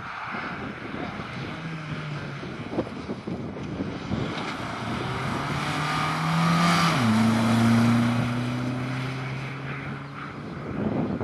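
Rally car engine running hard, its tone climbing and then dropping sharply about seven seconds in before settling at a lower pitch, over a steady rush of wind and road noise.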